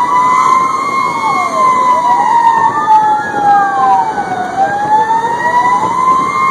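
Fire engine sirens wailing, two at once: one rises and falls slowly, while a second sweeps up and down faster, about once every one and a half seconds.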